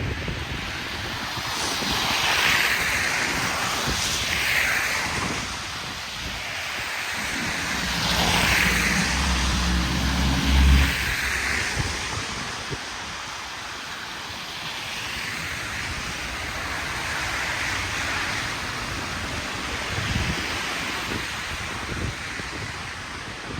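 Street traffic on snowy, slushy roads: several cars pass one after another, each a swelling and fading tyre swish. A heavier vehicle's engine rumbles by about eight to eleven seconds in.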